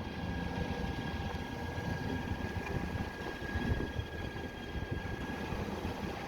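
Steady low drone of a sailing yacht's inboard engine running under way, with a thin steady whine above it.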